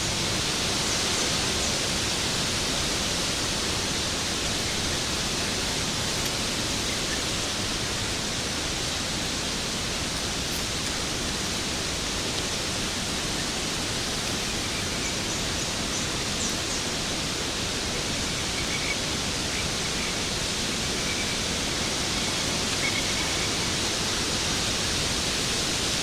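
Waterfall: a steady, unbroken rush of falling water, an even hiss that is strongest in the upper range.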